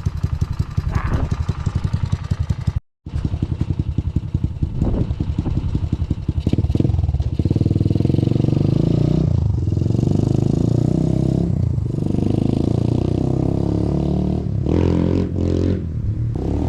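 1983 Honda ATC185s three-wheeler's single-cylinder four-stroke engine, big-bored with an XR200 kit and breathing through an aftermarket Amazon exhaust, revving hard under acceleration. Its pitch drops and climbs again several times as it shifts up through the gears. The jetting is still a little fat, by the owner's account.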